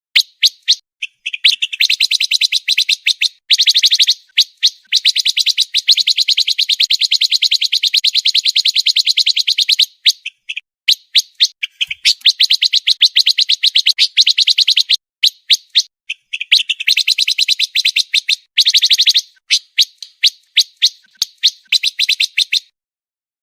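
Pancawarna bird singing: long, very fast runs of high, tightly packed chips, each run lasting a few seconds, broken by short pauses and scattered single notes, stopping shortly before the end.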